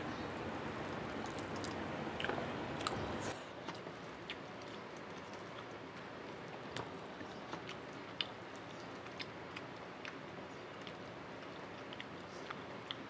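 Close-miked eating sounds: a person chewing a mouthful of rice and chicken curry, with scattered soft mouth clicks and smacks. A steady background hiss drops away about three seconds in.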